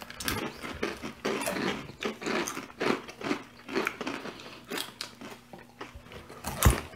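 Several people crunching and chewing a crisp, dry Indian namkeen snack mix, with many small irregular crunches. One louder thump comes near the end.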